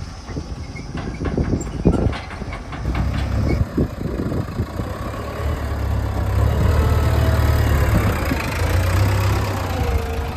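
Heavy diesel vehicle engine running, a low steady drone that comes in strongly about three seconds in, after a stretch of irregular knocks and rattles.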